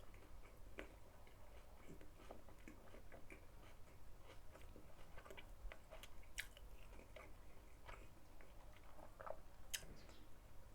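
A person chewing a sauce-laden chicken burger with the mouth close to the microphone: faint, irregular wet clicks and smacks, with a couple of sharper clicks about six and ten seconds in.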